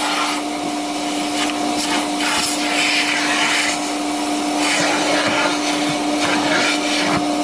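Vacuum cleaner running with a steady whine under loud rushing air, the air noise swelling and dipping as the nozzle sucks at a wig.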